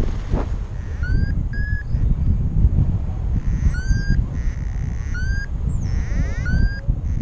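Strong wind buffeting the microphone with a steady low rumble. About five short, high, slightly rising beeps are scattered through it.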